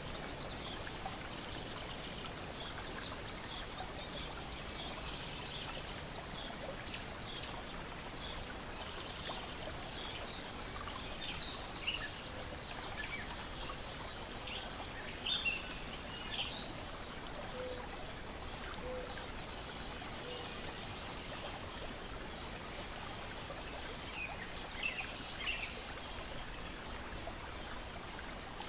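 Lakeshore ambience of water lapping and trickling as a steady wash, with birds chirping on and off throughout and a few sharp clicks.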